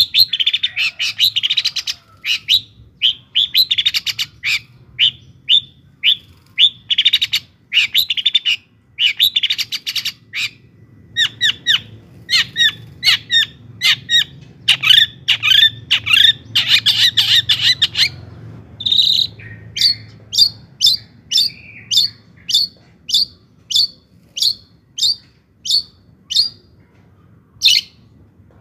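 Long-tailed shrike singing: fast, dense runs of sharp chattering notes, changing after about 19 seconds to single sharp notes repeated about twice a second.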